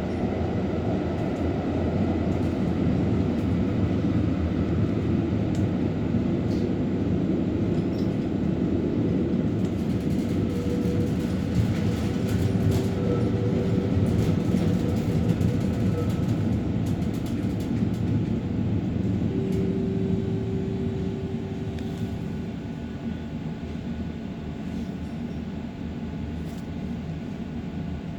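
Helsinki tram running on its rails: a steady low rumble, with a faint electric motor whine heard in the middle. The sound eases down somewhat near the end.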